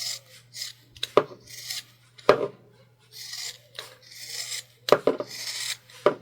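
Fabric scissors cutting through the layered bag fabric to trim half an inch off the edge: a string of short rasping cuts, with a few sharp clicks in between.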